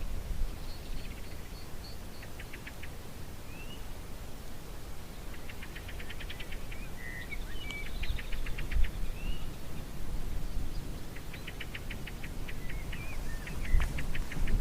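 Forest birds calling: several bouts of rapid dry trills made of quick repeated notes, a short run of high even notes near the start, and scattered short chirps and whistles, over a constant low rumble.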